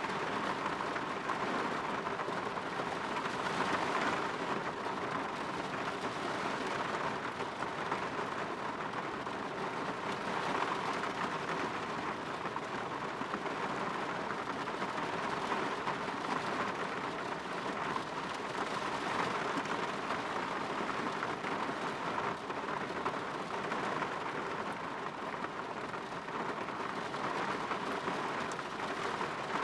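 Steady rain falling on a window, a dense even patter with no breaks.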